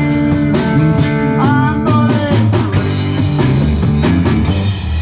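Live rock band playing an instrumental passage: electric guitar lead with bending notes over bass and drums. The song comes to its end just at the close.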